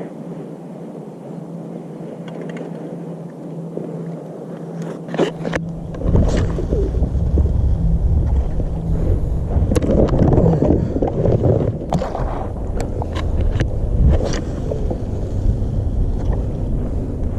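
Handling and wind sounds aboard a fishing kayak: a low hum, then wind rumbling on the microphone from about six seconds in, with scattered knocks and clicks.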